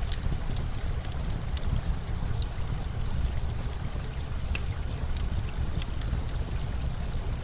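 Campfire crackling with frequent sharp pops and snaps over a steady rush of running water.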